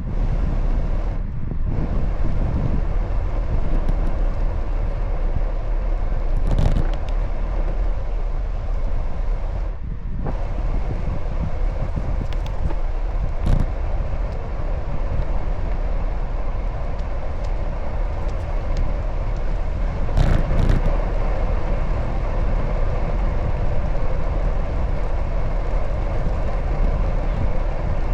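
Steady street traffic and road noise heard from a moving bicycle, with a heavy low wind rumble on the microphone. A few brief knocks stand out, about a third, halfway and two-thirds of the way through.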